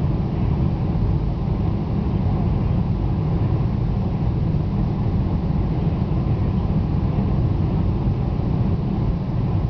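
Steady low rumble of engine and airflow noise inside the passenger cabin of a Boeing 747 Combi airliner.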